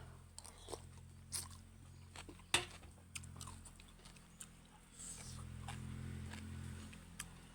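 Someone eating noodle soup: chewing and small clicks and taps, over a steady low hum that grows louder for a couple of seconds near the end.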